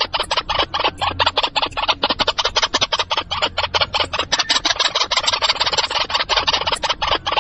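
White-breasted waterhen calling: a rapid, unbroken run of harsh calls, about eight a second.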